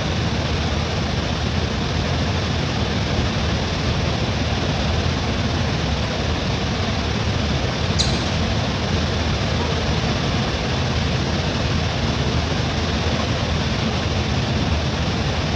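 Steady heavy rain, a loud even rushing with a low rumble, with one sharp click about eight seconds in.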